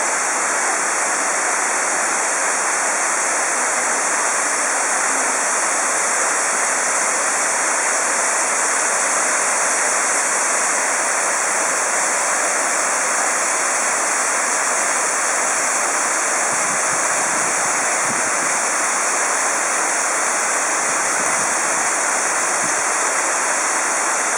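Varovitets waterfall: a steady, loud rush of falling and splashing water.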